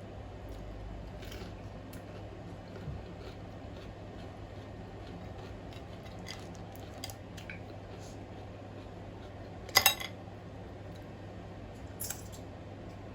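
Eating at a table: scattered light clicks and taps of utensils against dishes, over a steady low hum. About ten seconds in comes a sharper, louder double clack, and another smaller one about two seconds later.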